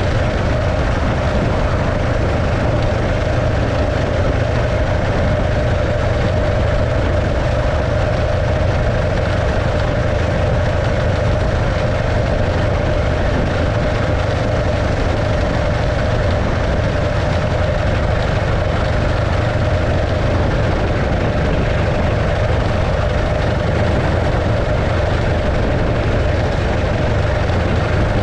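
1915 Arcade motorcycle's 650cc JAP V-twin engine running steadily, with a constant hum and no change in speed.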